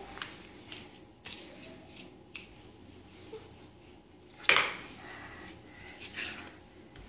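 Puzzle pieces being handled: scattered light clicks and taps, with one sharper knock about halfway through.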